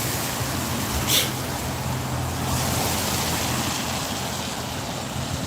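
A motor vehicle engine running with a steady low hum that fades after about three seconds, over road traffic noise, with a brief sharp hiss about a second in.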